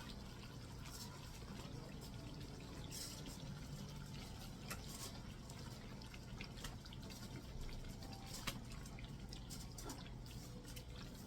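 Faint dripping and trickling water, with scattered light clicks over a low steady hum.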